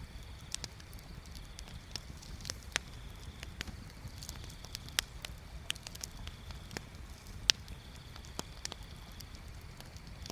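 Wood bonfire crackling: irregular sharp pops and snaps, one louder pop about seven and a half seconds in, over a low steady rumble.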